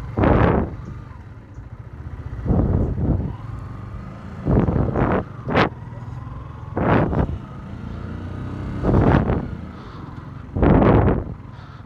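Yamaha R15 single-cylinder motorcycle engine running steadily on the move, with short, loud rushing bursts every one to two seconds.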